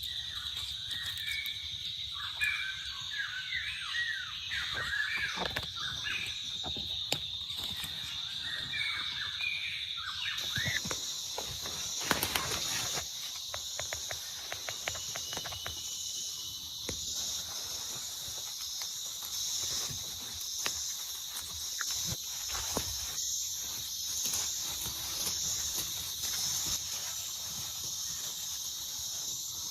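Jungle ambience: insects holding a steady high drone, with birds calling in quick gliding chirps over the first third. About a third of the way in, a second, higher insect chorus starts up, pulsing evenly. Scattered light clicks come throughout.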